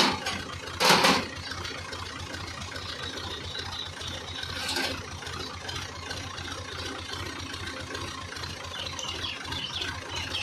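Fiat 480 Special tractor's diesel engine idling steadily with an even low throb. Two brief loud rushing bursts come at the very start and about a second in, and a weaker one follows a few seconds later.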